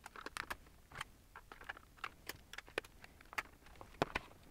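Scattered small clicks and taps of a plastic handheld PC being handled while a coin-cell backup battery is fitted into it.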